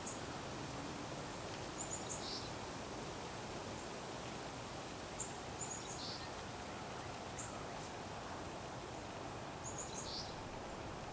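Small birds giving short high chirps in little clusters every few seconds, over a steady background hiss.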